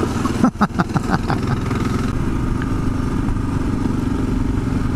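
Kawasaki KLR 650's single-cylinder engine running steadily under way, with a quick run of knocks and clatter about half a second to a second and a half in.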